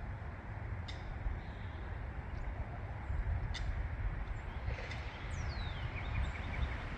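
Steady low rumble of road traffic, with a bird giving one falling whistle about five seconds in, followed by a quick run of short chirps.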